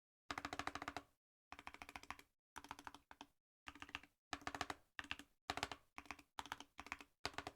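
Typing on a custom-built keyboard: short bursts of quick keystrokes with brief pauses between them, starting about a third of a second in.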